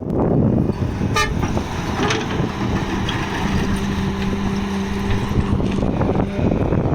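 Diesel engine of a Doosan wheeled excavator running hard while it works. A steady low tone is held for about four seconds in the middle, and there is a short sharp sound about a second in.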